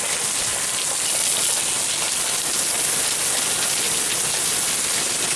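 Heavy hurricane rain falling steadily, a loud even hiss of rain beating on the umbrella overhead.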